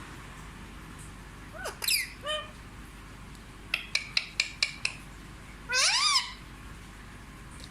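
Indian ringneck parrot calling: a swooping call and a short one, then a quick run of six short sharp calls, then a louder rising call about six seconds in.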